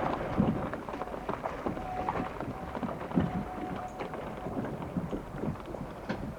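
Wind buffeting the microphone on a boat, with irregular splashing and sloshing of water.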